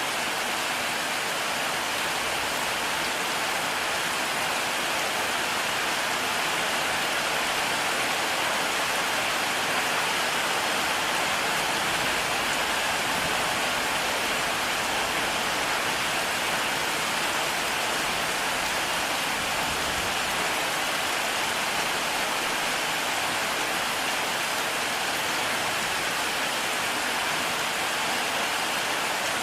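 Heavy rain falling steadily, a dense, even hiss with no break or thunderclap.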